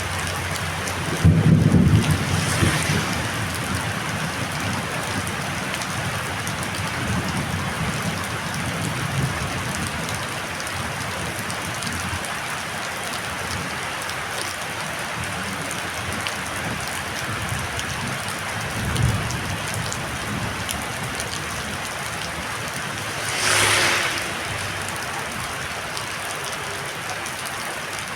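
Heavy rain falling steadily in a storm, with a loud low rumble about a second in and a short swelling whoosh near the end.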